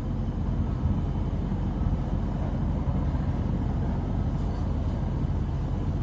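Daikin mini-split outdoor unit running in cooling mode, compressor and condenser fan giving a steady low hum.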